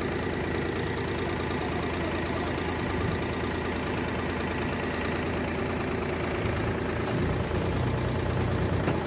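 Powertrac tractor's diesel engine running steadily, its low rumble growing heavier about six and a half seconds in.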